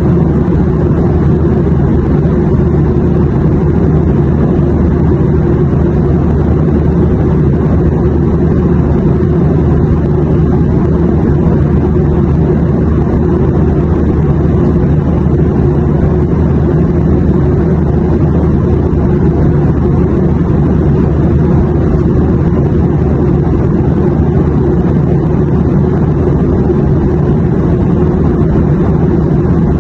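Steady airplane drone: a low, even rumbling hum that does not change.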